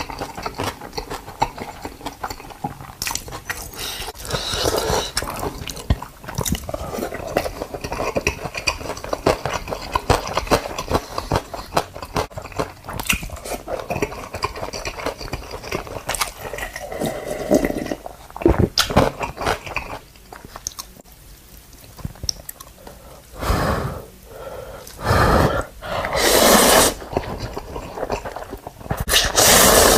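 A giant panda chewing and crunching its food close up, a dense run of wet clicks and crunches, with several louder bursts of noise in the last seven seconds.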